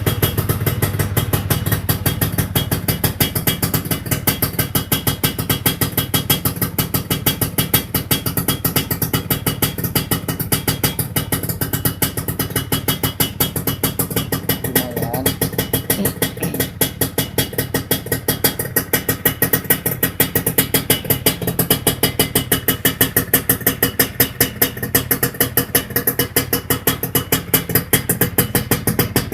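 Yamaha F1ZR 110cc two-stroke engine running steadily through a newly fitted aftermarket 'bellek' exhaust, a rapid, even stream of exhaust pulses.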